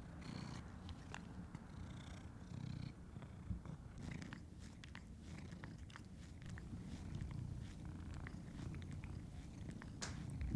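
A cat purring steadily in a low, continuous rumble, with light clicks and small taps from about four seconds in.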